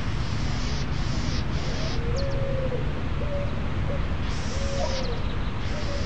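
A steady low rumbling hiss, with short soft calls that slide up and down in pitch recurring several times through it.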